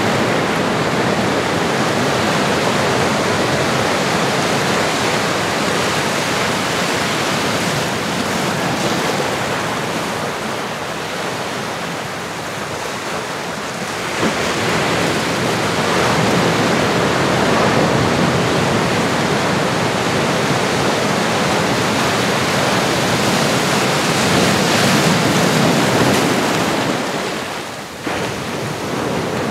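Recorded ocean surf: a continuous wash of breaking waves that swells and eases, quieter for a few seconds around the middle and dipping briefly near the end.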